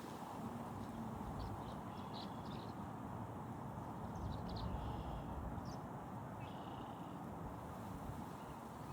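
Outdoor ambience: a steady low wind rumble on the microphone, with a few short, high bird chirps scattered through it.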